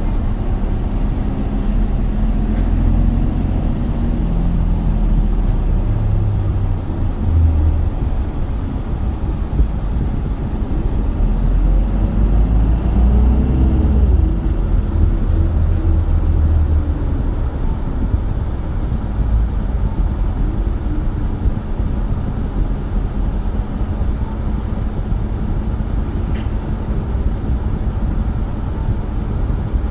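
Isuzu Erga city bus (2RG-LV290N3) diesel engine and drivetrain heard from inside the cabin while under way: a steady rumble whose engine note rises and falls twice as the bus accelerates, with a single sharp click near the end.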